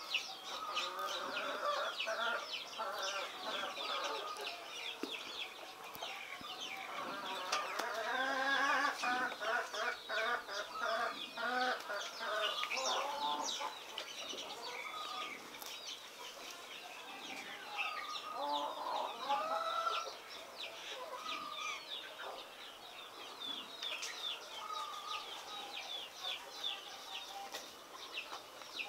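Bird calls: clucking like domestic fowl among many short, high, falling chirps.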